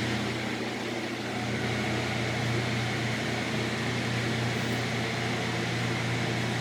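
Steady machine hum with a whirring noise, unchanging throughout, as from a running fan or motor.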